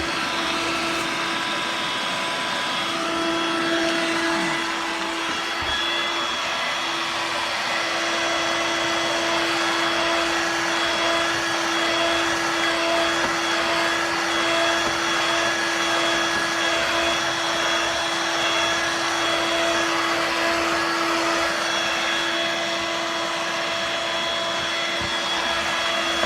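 Dirt Devil Vibe corded stick vacuum running steadily in floor mode: a constant motor hum with a steady whine over the rush of air.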